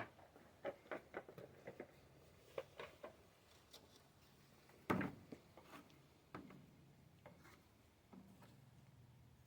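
Scattered light clicks and taps from handling tools and metal parts on a workbench, with one louder knock about five seconds in.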